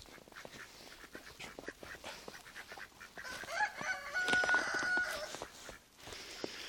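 A rooster crowing once about three seconds in: a call that rises and then holds on one high note for about a second.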